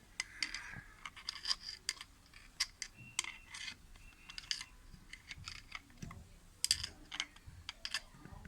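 Irregular light clicks, taps and scrapes from handling and poking at a removed washing-machine motor, several a second in uneven clusters.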